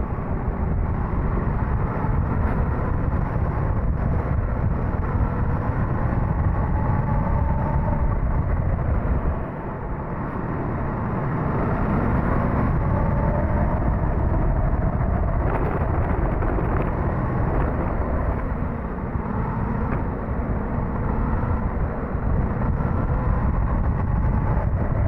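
Suzuki GSX-S1000GT's inline-four engine running while riding, heard with dull wind and road noise, easing briefly about ten seconds in.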